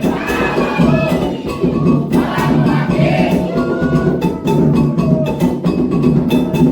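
Candomblé ritual music: atabaque hand drums and a metal bell playing a steady, dense rhythm, with voices singing a chant for the orixás Oxum and Logun Edé over them.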